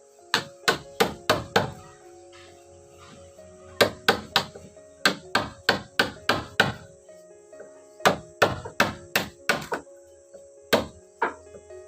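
Hammer blows struck in runs of several quick strikes, about three a second, with short pauses between the runs.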